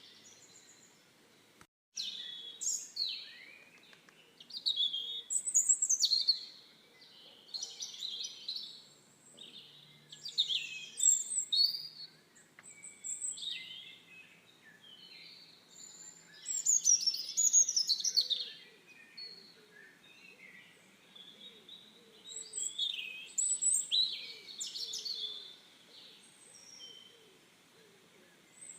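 Birdsong: several birds chirping and singing in quick, overlapping high phrases and trills, broken by a moment of silence just before two seconds in.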